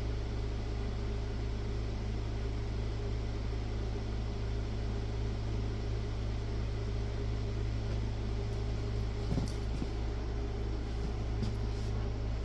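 Steady low electrical hum with a fan-like whir from bench equipment, with a couple of faint clicks about 9 and 11 seconds in.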